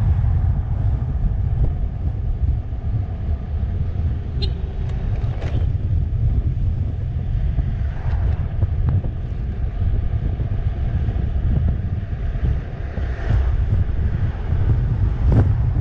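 Wind buffeting the microphone on a moving electric scooter: a steady low rumble, with a few brief knocks.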